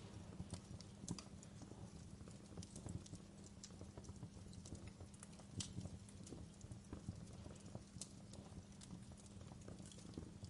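Wood fire crackling in a fireplace: faint, irregular sharp pops and ticks over a steady low rumble of the burning.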